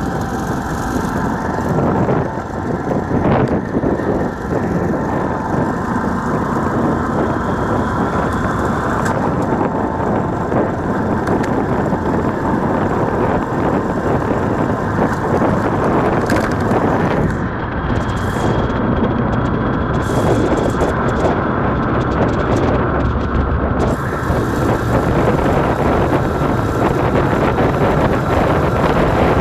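Motorcycle running steadily on the move, with wind noise on the microphone.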